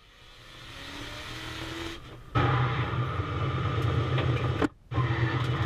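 Supercharged LS V8 of an LS-swapped Toyota 86 drift car, heard from inside the cabin during a drift run. It starts quieter with a rising tone, then turns loud and dense from about two seconds in. The sound cuts out briefly near the end.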